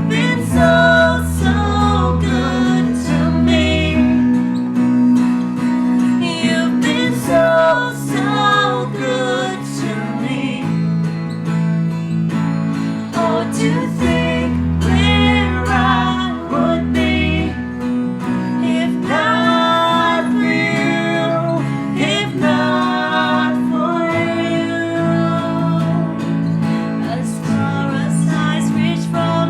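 Worship song: a woman singing over acoustic guitar accompaniment with sustained chords and a deep bass line.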